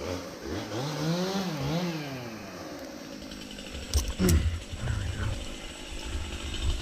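A chainsaw is started about four seconds in, two sharp pulls then a falling tone as it catches, and settles into a steady low idle.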